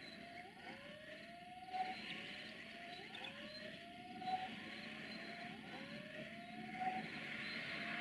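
A passenger train approaches at a distance, its running noise slowly growing louder. Over it, a short rising whoop, like a siren, repeats about every second and a quarter.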